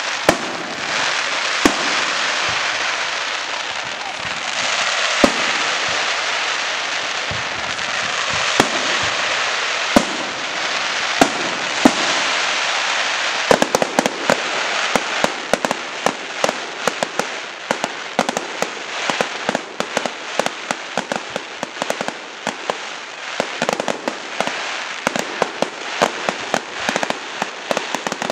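Firework display: sharp single bangs every second or two over a steady hiss, then about halfway through a dense rapid crackle of many small cracks. The single bangs are the loudest sounds.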